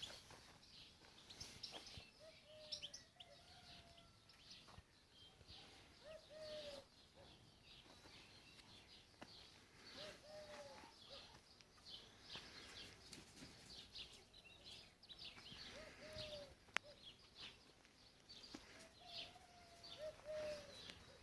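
Faint birdsong: many short high chirps, with a lower, short arched call repeated every few seconds, and a single sharp click late on.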